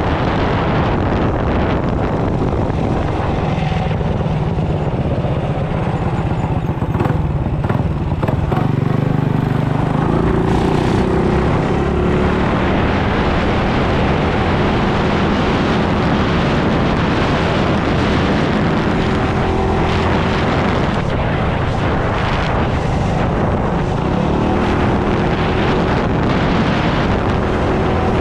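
Mini bike engine running, its pitch rising and falling as the throttle and speed change, with a rush of wind over the microphone.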